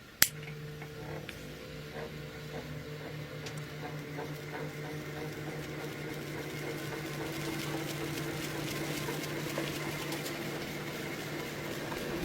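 A sharp click, then a small motor running with a steady low hum and a hiss that slowly gets louder.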